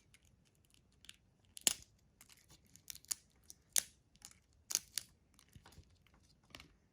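Irregular sharp crackles and clicks, several of them louder, like something being crumpled or handled.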